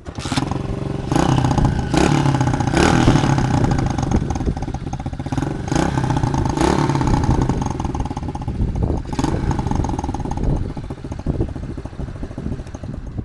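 110cc semi-automatic pit bike's single-cylinder four-stroke engine firing up on the first kick and running, revved repeatedly with short throttle blips.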